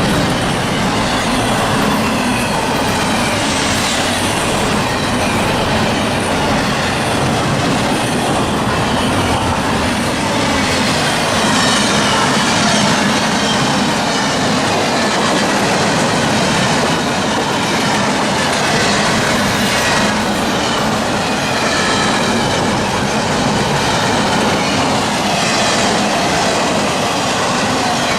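A CSX freight train's cars rolling steadily past, wheels clicking over the rail joints, with some high wheel squeal.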